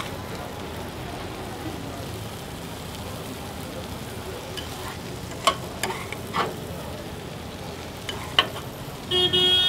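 Food frying with a steady sizzle, broken by a few sharp clicks about halfway through and again near the end. In the last half second a vehicle horn sounds.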